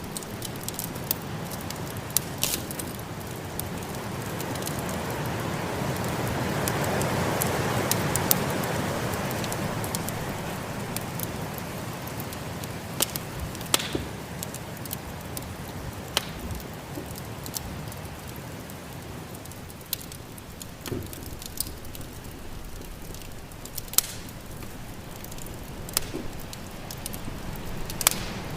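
Wood fire crackling with scattered sharp pops, over a steady rushing snowstorm wind that swells to a gust early on and dies back down.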